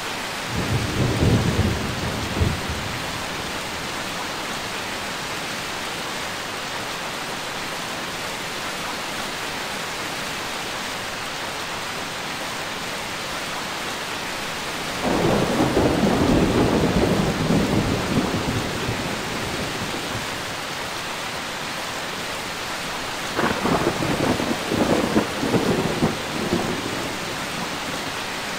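Steady heavy rain with three rolls of thunder: a short rumble near the start, a longer roll about halfway through, and a crackling, rumbling peal a few seconds before the end.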